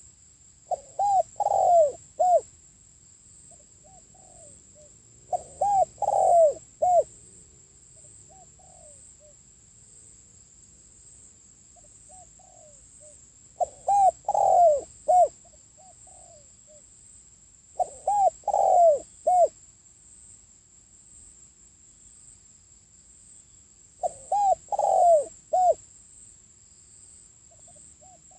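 Spotted dove cooing: five phrases of several low coos each, spaced a few seconds apart, with fainter coos in between.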